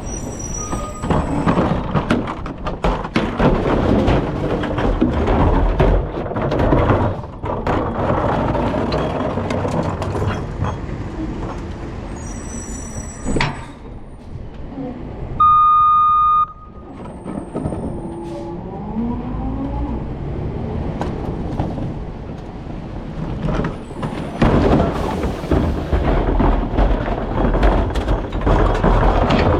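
Rear-loader recycling truck at work: steady engine and mechanical noise with many clanks and rattles. A single loud, steady beep lasts about a second midway through.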